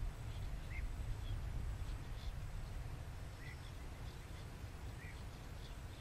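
Short, scattered bird calls: three clearer chirps a couple of seconds apart, with fainter higher ones between, over a steady low rumble.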